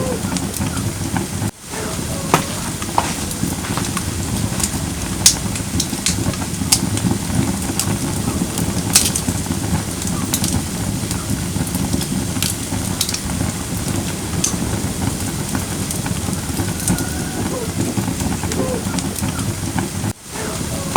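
Firewood burning in a fire pit: a steady hiss with sharp crackles and pops scattered irregularly throughout, and two very brief dips in level, about a second and a half in and near the end.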